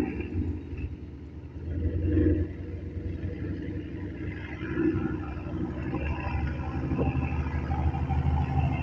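Car engines running at low speed with a low rumble that swells about two seconds in and again near five seconds.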